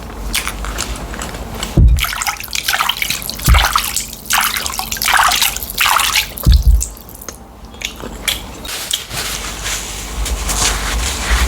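Close-up wet eating sounds: a person chewing and slurping tilapia in light soup with starch, in irregular squelchy bursts. Three dull low thuds come in, about two, three and a half, and six and a half seconds in.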